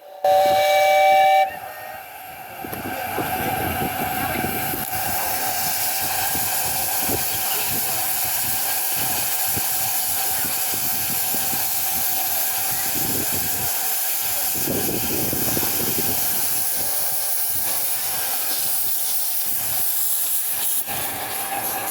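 Miniature live-steam locomotive giving a short two-tone whistle blast, then steam hissing steadily.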